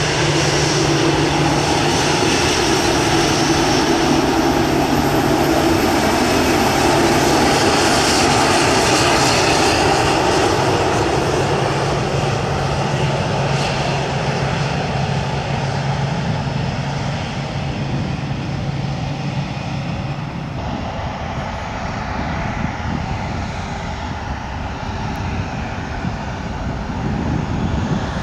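Airliner's engines running loud as an aircraft passes, a steady rushing noise with a low hum, fading away over the second half.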